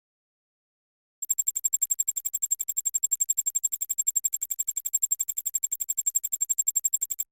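Rapid high-pitched electronic beeping, about ten even beeps a second, starting about a second in and cutting off abruptly near the end.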